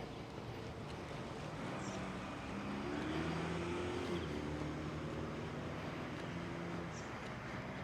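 A car driving past, its engine hum and tyre noise swelling to a peak a few seconds in and fading away again.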